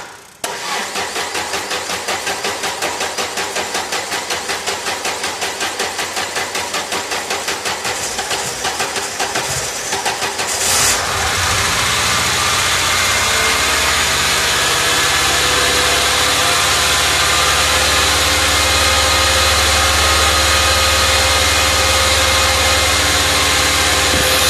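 Peugeot 405 engine cranking on the starter with about five even pulses a second, catching about eleven seconds in, then running steadily. It is the car's first start after four years laid up, run on temporary wiring with two-year-old petrol and no radiator.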